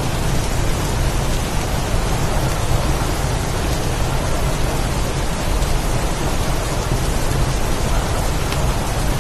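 Steady heavy rain in a windstorm, a dense even hiss over a continuous low rumble, with faint drop ticks now and then.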